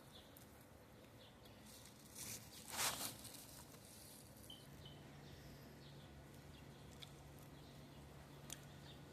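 Faint, scattered short peeps of baby chicks. A brief rustling burst about three seconds in is the loudest sound, and a low steady hum comes in about halfway through.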